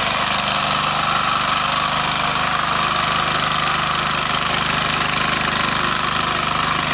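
Diesel mini tiller (power tiller) engine running steadily at an even speed, with a fast regular firing beat.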